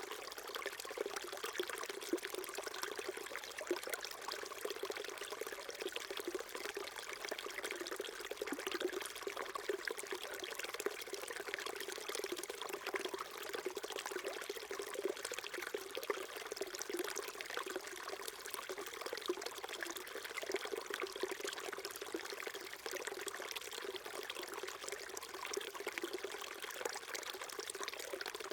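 Small stream flowing steadily over stones, a continuous trickling and babbling of water.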